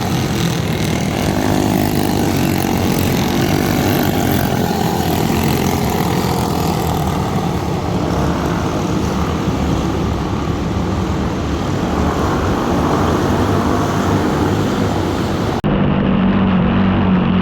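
Four-stroke racing kart engine running at speed, its pitch rising and falling, under a loud rushing noise that fills the upper range. Near the end the rushing stops abruptly and the engine is heard clearly with a steady note.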